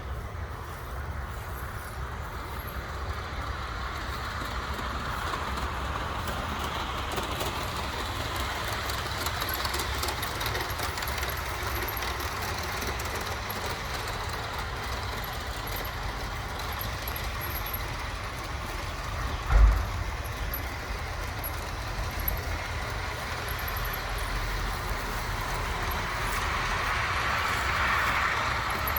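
Outdoor model train running along its track, a steady rolling clatter that swells near the end as it draws closer. A single sharp thump comes about two-thirds of the way through.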